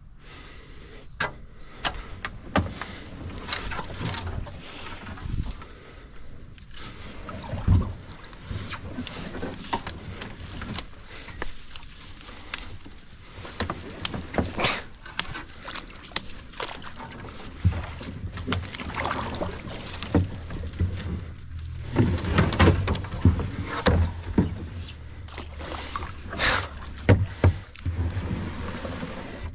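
Kayak being paddled through water: the paddle dipping and splashing, with many irregular sharp knocks and clunks.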